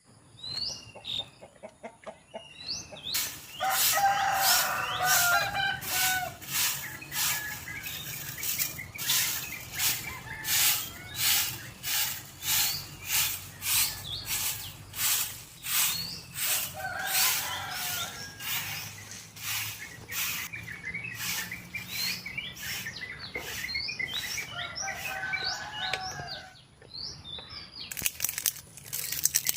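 Chickens clucking and calling, with small birds chirping. Through most of the middle there is a run of sharp knocks, about two a second.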